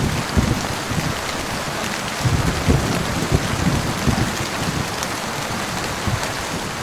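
Heavy rain falling steadily, with low thunder rumbling that swells near the start and again around the middle.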